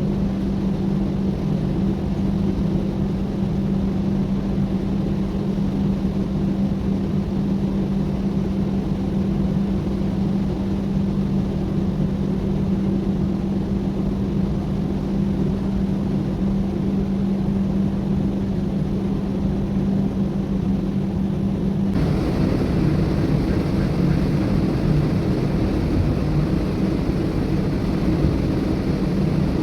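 Ship's engine running steadily, a loud low drone with a strong constant hum. About three-quarters of the way through the sound changes abruptly, becoming louder and brighter.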